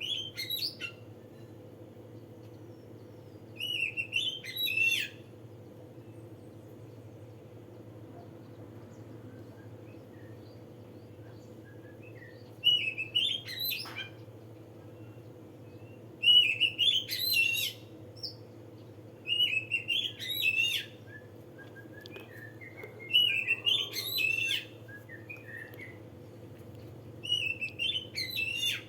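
A songbird singing short, rapid warbling phrases of high chirps, about seven phrases a few seconds apart, over a steady low hum.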